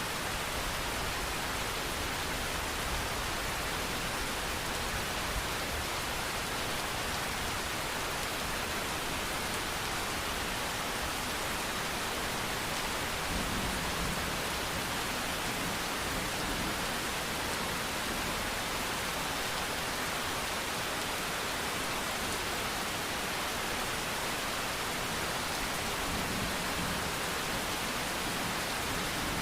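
Steady rain falling, an even, unbroken hiss of many drops with no distinct single drops or thunder.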